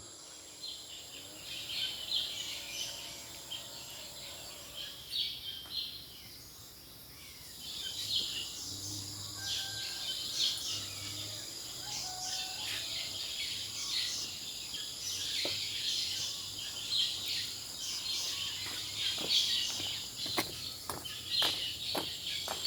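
Forest ambience: many birds chirping over a steady high insect drone, with a run of sharp clicks in the last few seconds.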